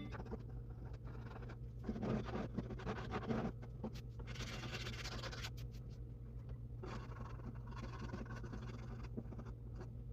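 Scraper dragged in irregular strokes over a surface, taking off paint softened by stripper. The strokes are strongest in the first half, over a steady low hum.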